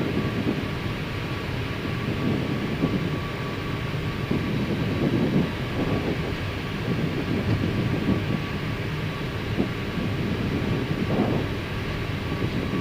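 Flight-deck noise of an Airbus A319 taxiing on one engine: a steady rumble from the running engine, air systems and wheels rolling on the taxiway, with a faint steady high tone.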